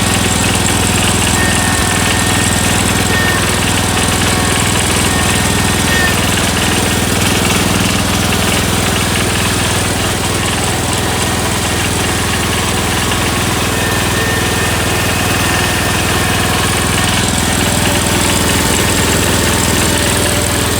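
John Deere 314 garden tractor's single-cylinder Kohler engine running steadily, with a slight knock and the carburetor not yet adjusted: an old, worn engine that the owner says will still last a while before it needs a rebuild.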